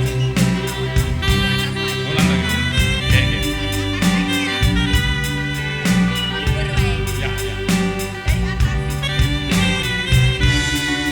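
Javanese gamelan ensemble music with held pitched tones over an even, steady drumbeat.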